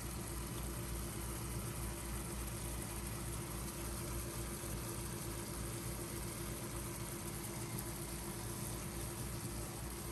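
A steady low mechanical hum with a constant tone and an even hiss, unchanging throughout.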